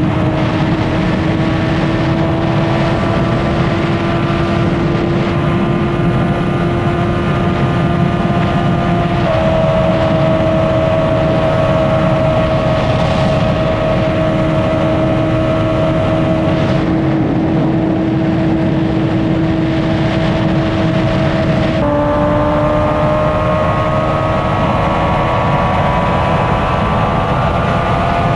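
Honda CBR600RR inline-four engine and exhaust under way at highway speed, its note climbing slowly under acceleration, with two gear changes where the pitch steps, about a third of the way in and again near the end. Wind rushing past the helmet camera runs under it.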